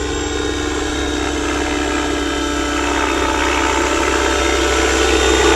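Electric 600-size RC helicopter built on Align T-Rex 550e mechanics, in flight: a steady motor whine over the hum of the rotor blades, growing gradually louder.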